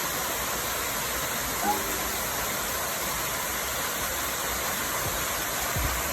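Steady rush of flowing water, with a low thud near the end.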